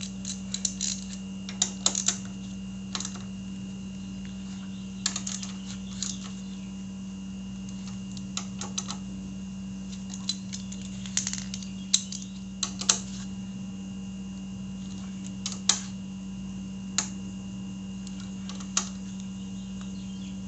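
Hand tools on the motorcycle's front brake caliper bolts as they are tightened: irregular sharp metallic clicks and taps in small clusters, over a steady low hum.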